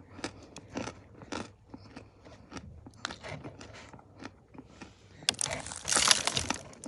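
Dry Ural clay chunks crunching as they are bitten and chewed: a run of short crisp crunches, with a louder, denser spell of crunching about five seconds in.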